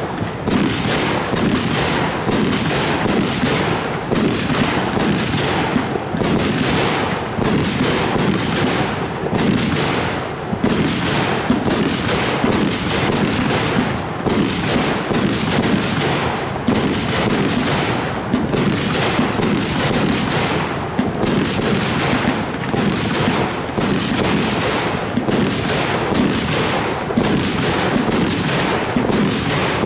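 A consumer fireworks battery (cake) firing shot after shot, about two or three a second without a break, with launch reports and aerial bursts overlapping.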